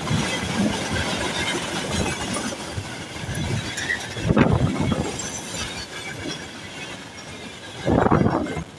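Freight train of tank wagons rolling past, its wheels knocking over the rail joints in irregular clusters, loudest about four seconds in and near the end.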